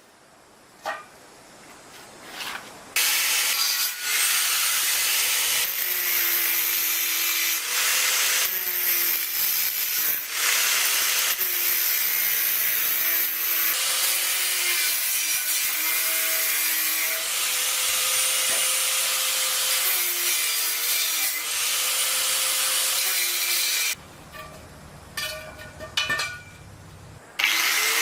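A power grinder working on metal, a loud hissing grind whose whine steps up and down as it bites. It starts about three seconds in, stops for a few seconds near the end with a few knocks, then starts again.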